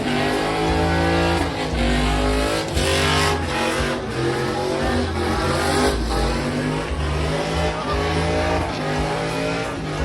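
Truck engine revving hard again and again, its pitch climbing with each rev.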